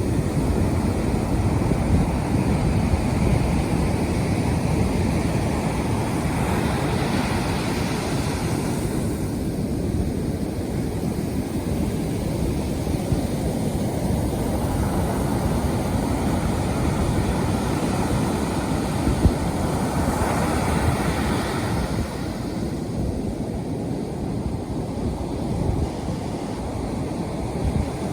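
Heavy surf after a typhoon, at spring tide: a continuous deep rush of waves breaking on the shore, with bigger breakers surging in about seven seconds in and again about twenty seconds in.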